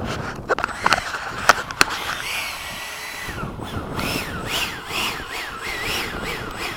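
Electric ducted fan of an RC jet whining, its pitch rising and falling over and over as the throttle is worked, with a few sharp clicks in the first two seconds.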